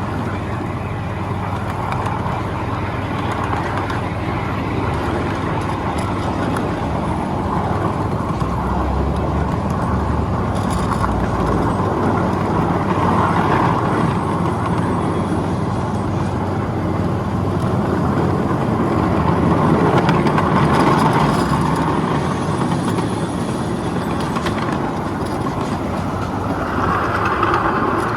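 Miniature ride-on train running steadily along its track, with the mixed noise of the small locomotive and the cars' wheels on the rails.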